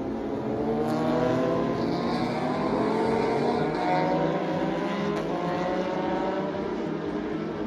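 Several racing motorcycle engines at high revs passing together, their pitch rising as they accelerate, loudest in the first half and easing off slightly toward the end.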